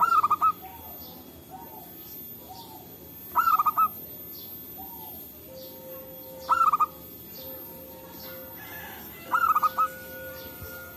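Zebra dove (perkutut) cooing: four short phrases of quick, rolling coos, evenly spaced about three seconds apart.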